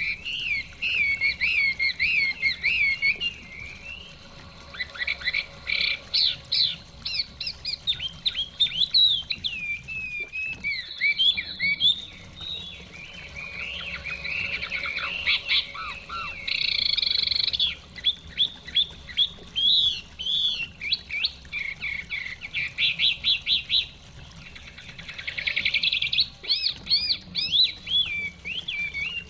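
Chinese hwamei singing a long, varied song of rapid whistled phrases and trills, with a few brief lulls.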